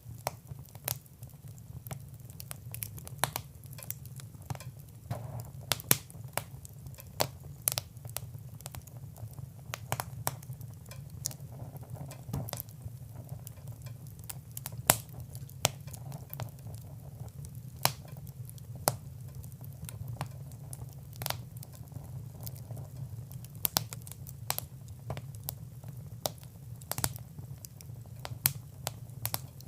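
Wood fire crackling: irregular sharp pops and snaps scattered through the whole stretch, over a steady low rumble of the flames.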